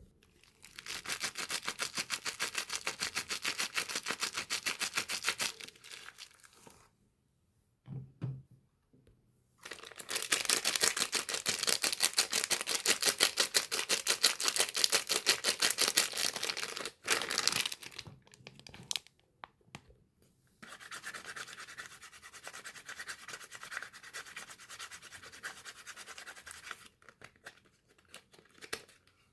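Rapid scratching and rubbing on soap wrappings, in three long stretches of quick, even strokes with short pauses between.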